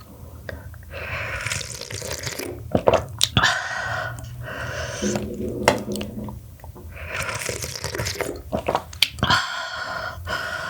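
Close-up eating sounds of mussel soup: sipping broth and chewing in irregular bursts, with several sharp clicks in between.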